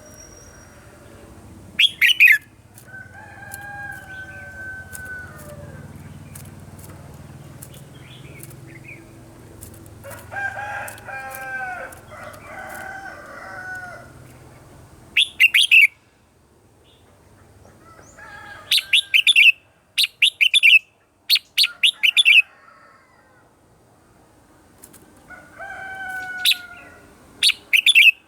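Red-whiskered bulbuls singing short, sharp, loud phrases in clusters, repeated several times. A rooster crows more quietly in the background two or three times.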